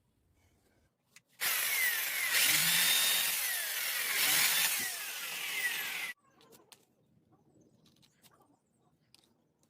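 A power tool running on bamboo for about five seconds, starting and stopping suddenly.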